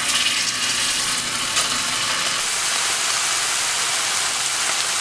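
Pork chops sizzling in hot oil in a skillet: a steady frying hiss.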